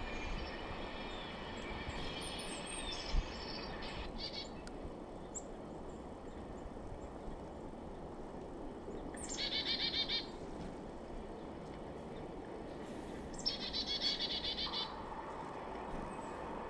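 Chickadees calling: two short runs of rapid buzzy notes, about halfway through and again a few seconds later, each opening with a high falling note, with fainter calls in the first few seconds. A steady hiss of outdoor background noise runs underneath.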